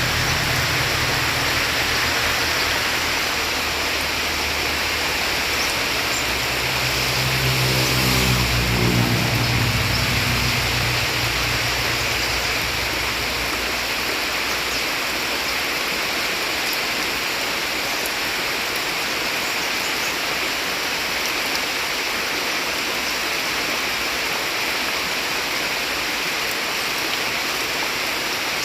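Heavy rain pouring steadily with the rush of running water. During the first half a motor vehicle's engine hums, grows louder as it passes about a third of the way in, then fades away.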